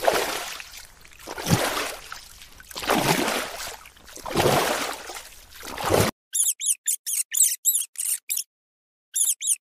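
Water surging in noisy swells about every one and a half seconds. About six seconds in, it cuts off suddenly to a rapid run of short, high squeaks, about three or four a second, which pause briefly and start again near the end.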